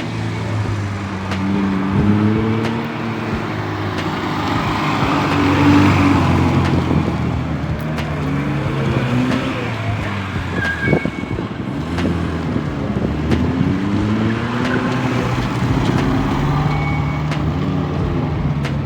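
Classic car engines and exhausts running and accelerating, with the engine pitch climbing and dropping back again and again through gear changes and revs.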